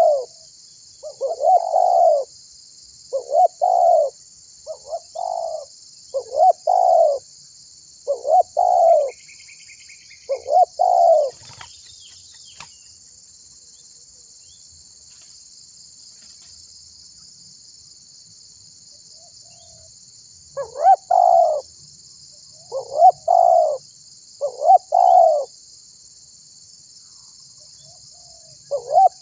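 Spotted dove (tekukur) cooing in repeated phrases for about the first eleven seconds, falling silent for about nine seconds, then taking up its cooing again. A steady high buzz runs underneath throughout.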